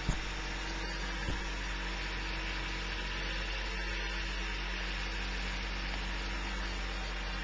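An engine running steadily, with a short knock right at the start and another about a second later.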